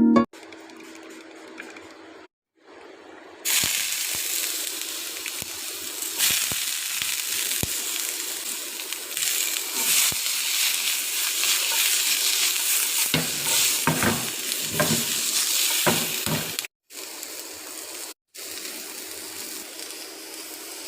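Food sizzling steadily in a hot frying pan, with a few knocks of a utensil stirring it. The sizzle starts suddenly a few seconds in and cuts off near the end.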